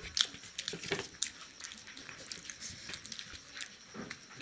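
Close-miked chewing and biting of fried pakoras (battered fritters): short, irregular clicks and crunches with mouth noises, and a bite into a tomato pakora near the end.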